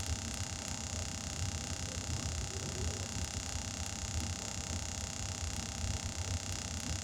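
Air compressor running steadily while air is fed into a newly mounted tire to seat its bead, a constant hum with an even hiss over it.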